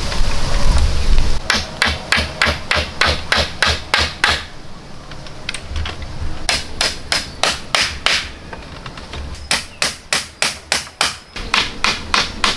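Hammer blows in quick runs of about four strikes a second, with short pauses between the runs, after a steady rushing noise in the first second or so.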